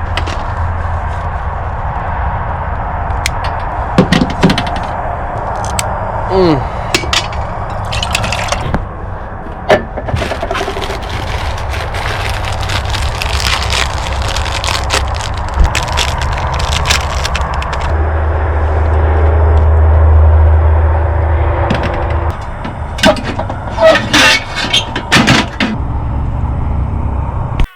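Dry ramen noodles and their packet being handled and broken up for the pot: crackling, cracking and sharp clicks that come and go. Under them runs a steady low rumble that swells for a few seconds past the middle.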